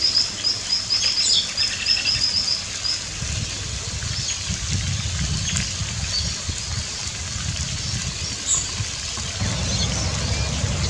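High, thin bird chirps: a quick run of about eight notes in the first three seconds, then a few scattered single chirps, over a steady low rumble.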